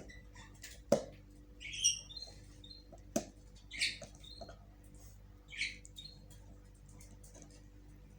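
A dog squeaking in its sleep with high, bird-like chirps, three of them about two seconds apart. There are two sharp clicks between them and a faint steady hum underneath.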